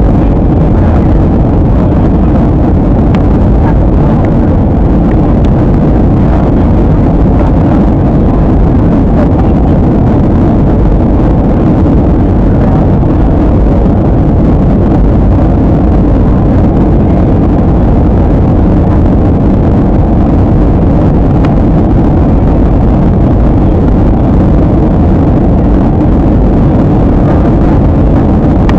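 Steady airliner cabin noise in flight: the jet engines and the airflow over the fuselage make a loud, even low roar that holds unchanged throughout.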